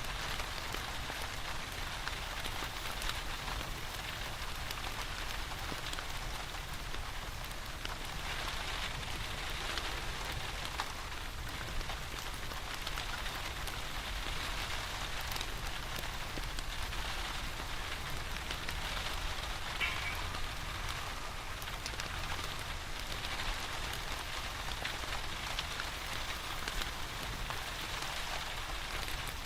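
Steady rain falling, an even hiss with scattered small ticks and crackles throughout.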